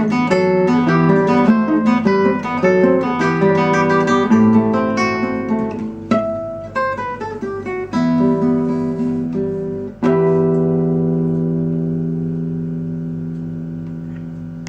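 Acoustic guitar playing the instrumental ending of a song: quick picked notes, then a few strummed chords. The last chord, about ten seconds in, is left ringing and slowly fades away.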